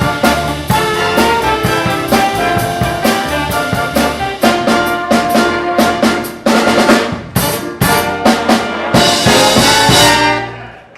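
Live big band with brass section and drum kit playing the closing bars of a swing number: a run of accented ensemble hits, then a loud final held chord that dies away just before the end.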